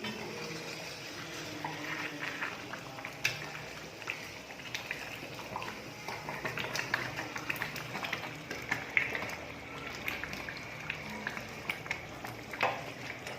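Kitchen cooking sounds: scattered clicks, clinks and crackles, irregular throughout, over a faint low background.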